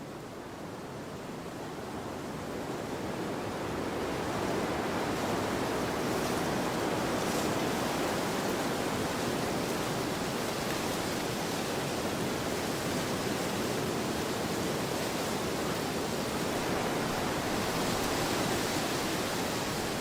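Wind blowing across an open field, a steady rushing noise that swells over the first few seconds as a gust builds, then holds.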